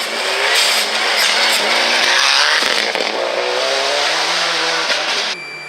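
A rally car driven hard past the spectators, its engine revving up and down through the gears under a loud rush of tyre and wind noise. The sound cuts off suddenly near the end.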